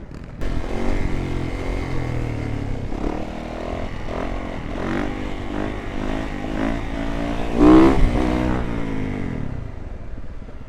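Dirt bike engine revving up and down repeatedly as it is ridden, its pitch rising and falling several times. It is loudest about eight seconds in, then fades away near the end.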